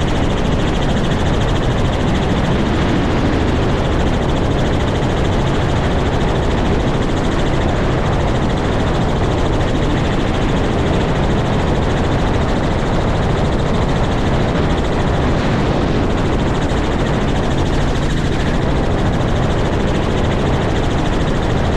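Helicopter running steadily: a constant rotor and engine noise with a low hum that neither rises nor falls.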